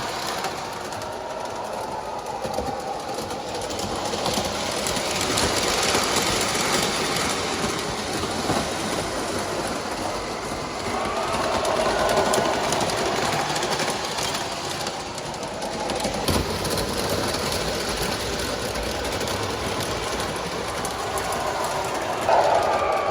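Electric model trains running on a layout's track: a steady whir of motors and wheels on rail with clicking over the track, and a whine that swells now and then. A sharp click about two-thirds of the way through.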